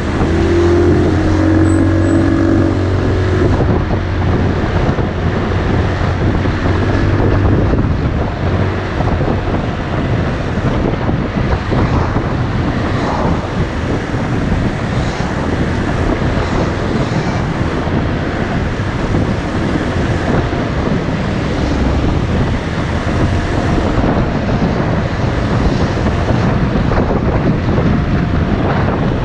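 Motorcycle running on the move, with wind rushing over the microphone. A steady low engine note is strongest for about the first eight seconds, then the wind and road noise take over.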